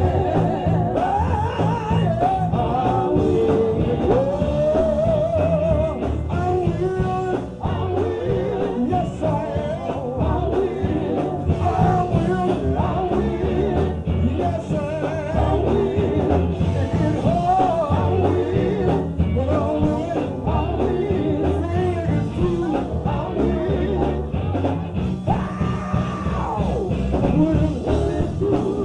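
Live up-tempo gospel song: singing voices over a band with a steady driving beat in the bass and drums.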